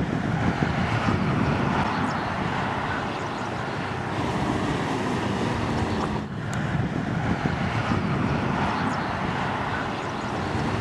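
Strong wind blowing across the microphone, a steady rushing noise that dips briefly about six seconds in.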